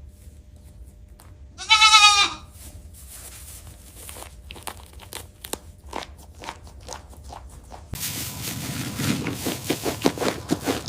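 A goat bleats once, a short quavering call about two seconds in. Steady crunching and clicking follows and grows busier over the last few seconds.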